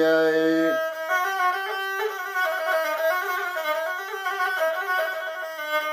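The singer's held, wavering note ends under a second in, and an instrument takes over with a slow, ornamented Arabic melody, answering the sung line of the 'ataba lament.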